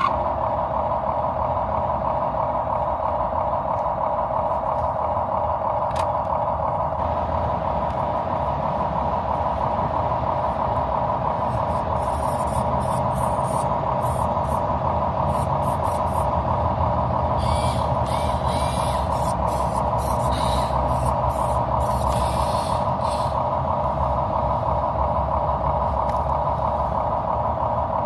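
Mini RC truck running with a steady motor whine over a low rumble. Short bursts of hissing come and go through the middle stretch.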